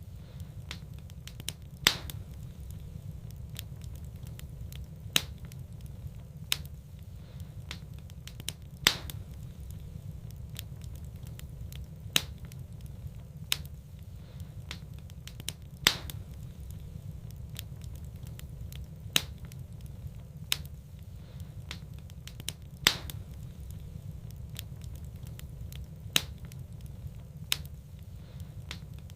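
Wood fire crackling in a fireplace: a steady low rumble of flames with sharp pops every second or so, a few of them much louder.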